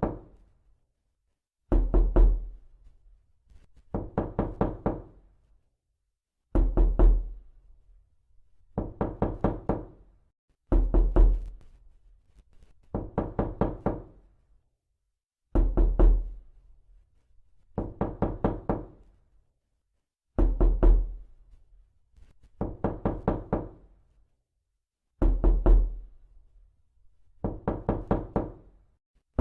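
Knocking: quick bursts of several raps each, repeated about every two seconds.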